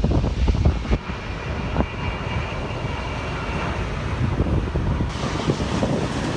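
Jet airliner engines with a faint high whine that fades out near the end, under gusty wind buffeting the microphone.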